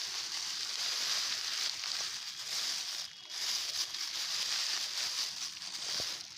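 Rustling and crinkling of plastic litter and dry leaves being gathered by hand, with a short pause about three seconds in.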